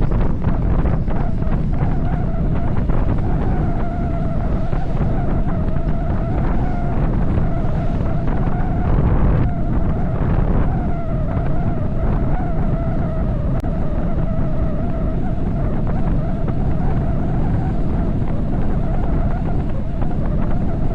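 Wind buffeting the microphone on a fast downhill bicycle ride, with a wavering, whine-like tone that fades in and out over the rush.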